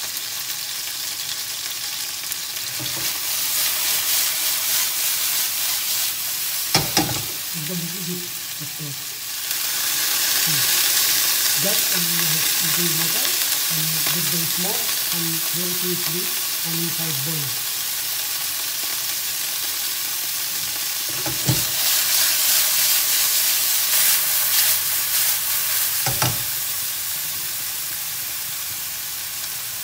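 Beef kofta frying in olive oil in a pan: a steady sizzle that swells and eases, with three sharp knocks against the pan.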